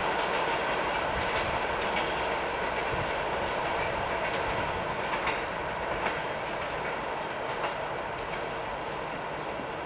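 Passenger train rolling past on the rails, its wheels clicking over rail joints now and then, the rumble slowly fading.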